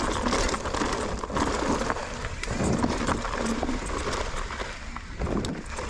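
Mountain bike riding over rough trail: tyres and bike rattling and clattering in quick, irregular knocks, over a steady rumble of wind on the microphone.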